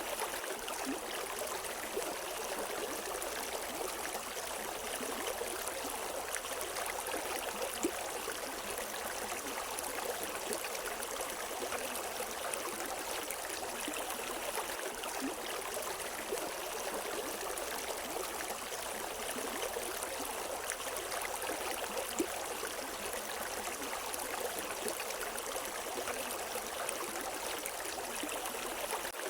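River water flowing over stones: a steady, even rush with small splashes and gurgles. Two slightly louder splashes stand out, one about eight seconds in and one a little past twenty seconds.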